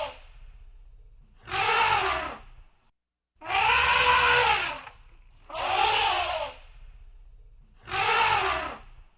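Elephant trumpeting in a repeated call, one blast about every two seconds: four full calls, each about a second long, rising then falling in pitch.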